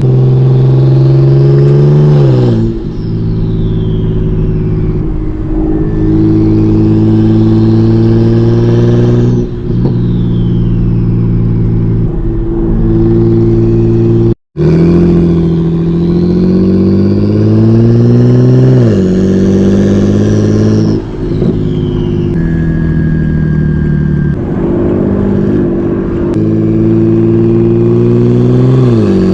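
Single-turbo BMW 335i N54 straight-six with a hood-exit exhaust pulling hard through the gears. The engine pitch climbs, then drops sharply about five times as it shifts, with a faint high turbo whistle rising and falling with the revs.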